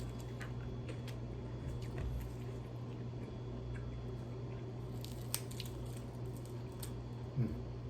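Close-up mouth sounds of someone chewing crispy refried chicken, with wet squishes and scattered crunchy clicks that cluster about five seconds in, over a steady low hum.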